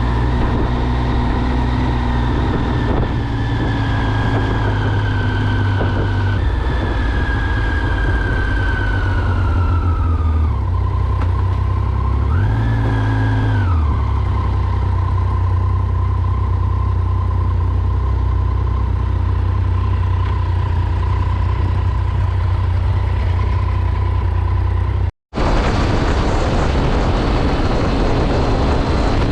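2006 Triumph Speed Triple's 1050 cc inline-three engine and exhaust under deceleration, its pitch sliding down, jumping up once about six seconds in as a gear is changed, then a short throttle blip and a steady low running note. Near the end the sound cuts off for an instant and gives way to a rush of wind noise.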